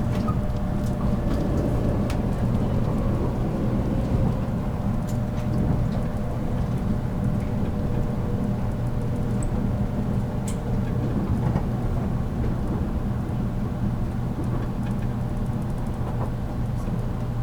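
Running noise heard aboard a JR Kyushu 783 series electric train car at speed: a steady low rumble of wheels on rail and traction equipment, with a faint tone that drifts slightly lower and a few light clicks.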